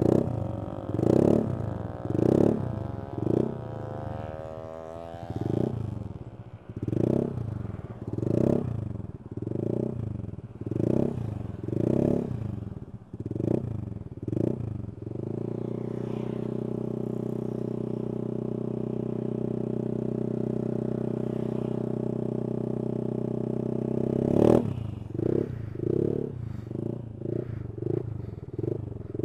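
Honda Vario 125 scooter's single-cylinder engine through a CLD C3 oval aftermarket racing exhaust with the dB killer removed, revved in short throttle blips about once a second. About halfway through the revs are held steady for roughly nine seconds, then a sharp blip and more short blips follow.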